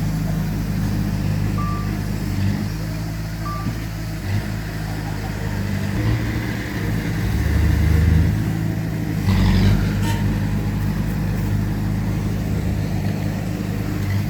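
Heavy diesel earthmoving machinery running steadily, its engine note rising and falling a little. There are two short high beeps in the first few seconds and a brief noisy burst about nine seconds in.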